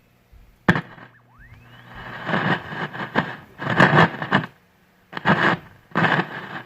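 1935 Coronado 585D tube radio's loudspeaker crackling with irregular bursts of static over a steady low hum, with a sharp click under a second in and a short rising whistle right after. The crackle comes and goes as the switch, which has a dead spot, is worked.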